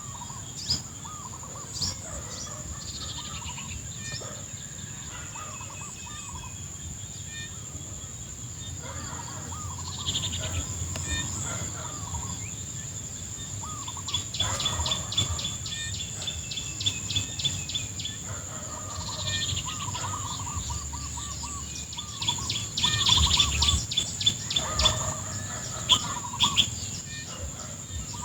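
Several birds calling over a steady, high-pitched insect drone. Runs of rapid chirps come in about halfway through and again near the end.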